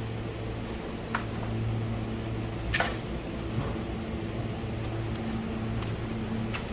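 Steady motor hum with a few sharp knocks, the clearest about a second in and just under three seconds in.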